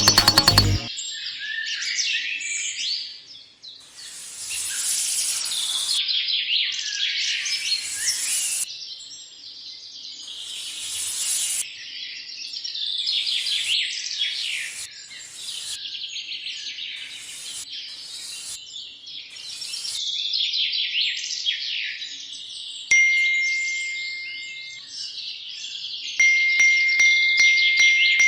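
Many small birds chirping and singing in quick, overlapping calls, with a steady high tone joining in near the end.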